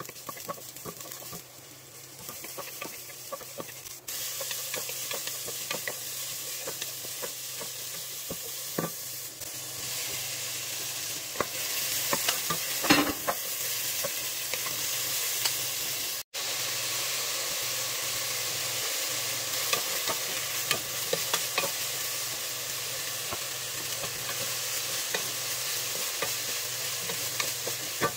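Food sizzling in hot oil in a pot, first sliced onion and garlic, then diced pork and carrot strips, while a wooden spatula stirs and scrapes with many small clicks and taps. The sizzle gets louder about four seconds in.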